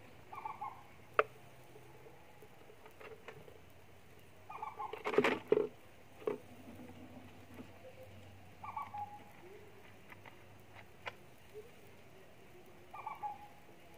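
A bird calls about every four seconds, the same short call each time. Sharp clicks and knocks come in between, the loudest a cluster of knocks about five seconds in.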